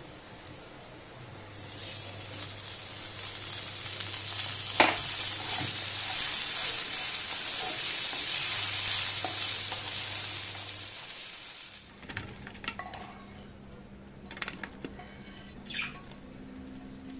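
Potato cubes and chopped garlic sizzling in butter in a non-stick frying pan while a wooden spatula stirs them; the sizzle grows louder about two seconds in, with one sharp tap of the spatula about five seconds in. The sizzle fades out about twelve seconds in, leaving a few light clicks and knocks.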